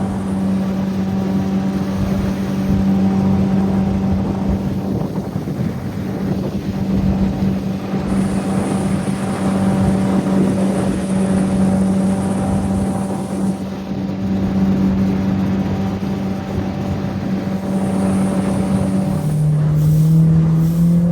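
Boat motor running steadily at speed, with its pitch dropping a step about nineteen seconds in as the throttle is eased back.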